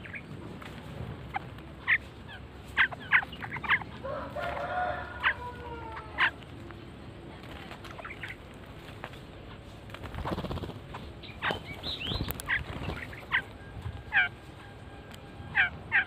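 Birds calling with short, sharp chirps scattered throughout, and a harsh, chattering call about four seconds in; a low rumble passes about ten seconds in.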